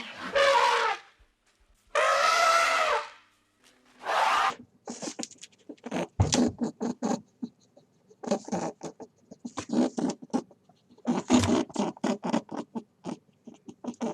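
Animal calls: two long pitched cries in the first few seconds, then rapid runs of short squeaky, clicking calls in bursts.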